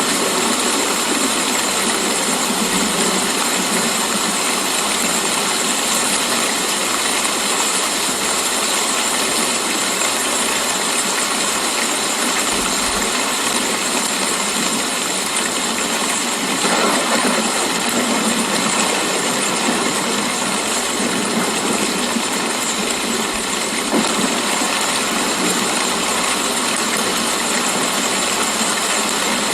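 Steady rain falling, an even dense hiss with a brief louder swell about halfway through.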